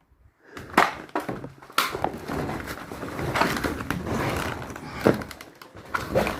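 Irregular knocks, clatters and scraping crunches of footsteps picking a way over junk and debris, with a dense rustle loudest in the middle.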